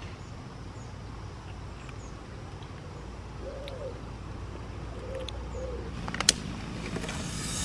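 A bird's faint low hooting calls, three short arched notes around the middle, over a steady low rumble. A sharp click comes near the end.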